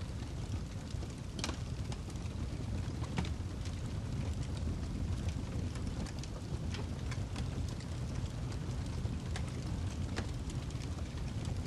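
Log fire burning in a wood fireplace: irregular sharp crackles and pops over a steady low rumble.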